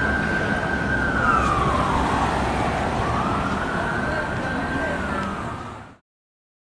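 Fire truck's electronic siren wailing over the rumble of the engine: the tone holds high, slides down and back up, and starts down again before the sound cuts off suddenly about six seconds in.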